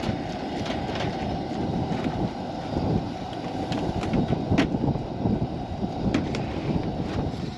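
Low, gusting rumble of wind buffeting the microphone, with scattered sharp clicks and pops on top.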